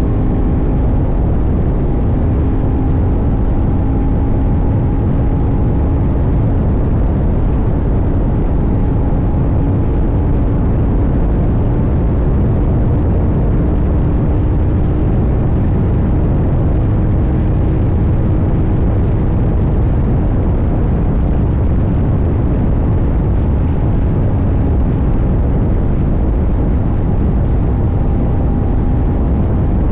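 CFMoto 800NK's parallel-twin engine running at a steady cruise, its note drifting only slightly in pitch, under heavy, steady wind and road rush on the microphone.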